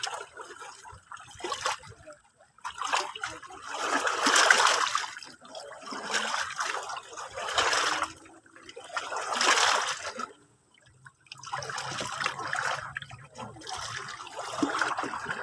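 Small sea waves lapping and splashing in irregular surges a second or two apart, with a brief lull about ten seconds in.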